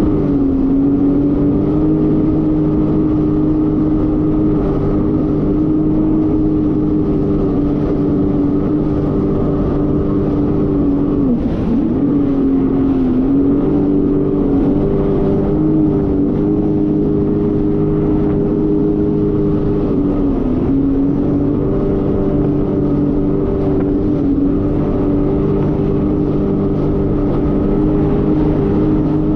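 Jet ski engine running at a steady cruising speed, its pitch dipping briefly twice before settling back.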